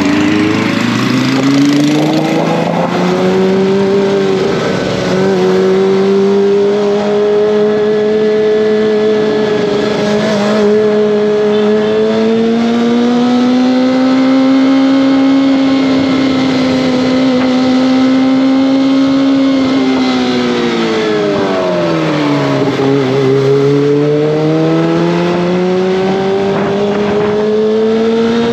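Kawasaki ZX-25R's inline-four engine and exhaust running under way. The pitch climbs over the first few seconds, holds fairly steady, drops about twenty seconds in as the revs fall, then climbs again near the end.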